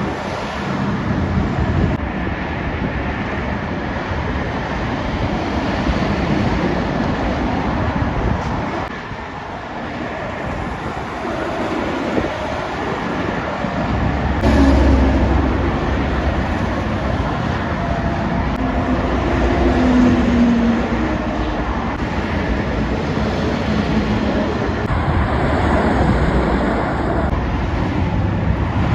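Heavy lorries and traffic driving past at speed, with a steady rush of engine and tyre noise. A louder, deeper engine note comes in about halfway through as a truck goes by.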